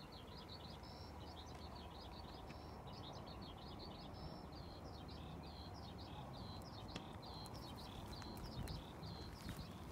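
Small birds chirping outdoors, a steady run of short, quick high notes, over a low background hum of ambient noise.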